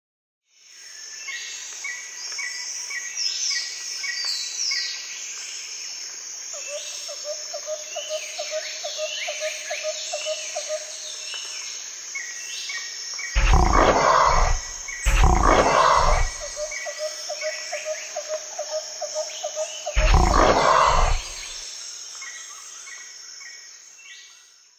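Wild-animal ambience: many short chirping calls over a steady high whine, with a repeated trill running for a few seconds at a time. Three loud animal roars come about halfway through, two close together and a third a few seconds later.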